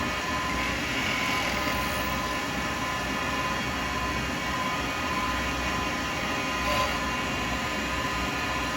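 Lathe running steadily while a 12mm round carbide cutter shaves an acrylic pen blank spinning between centres, with the cut slightly brighter about a second in.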